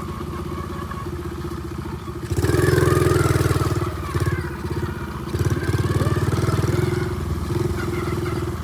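Pit bike engine running steadily, swelling louder twice: once about two and a half seconds in, and again past the halfway mark.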